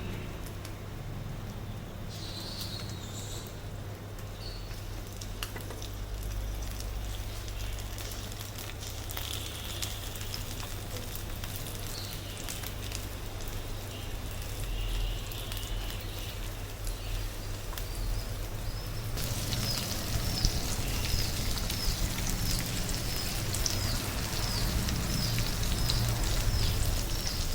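Chicken steak sizzling and crackling as it fries in a pan, over a low steady hum.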